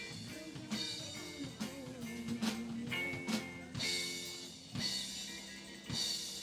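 Live band playing: drum kit hits and rimshots over sustained guitar notes, with cymbal crashes about four and six seconds in.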